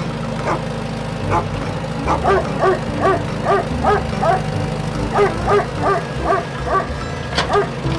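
Dog-like yapping: a few single yaps, then a quick run of short yaps about three a second that stops near the end, over a steady low hum.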